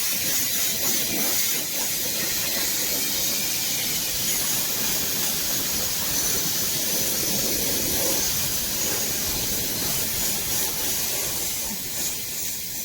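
Compressed air from a truck's air system hissing steadily as it is blown onto wet hair to dry it. The flow weakens near the end as the air tank runs empty.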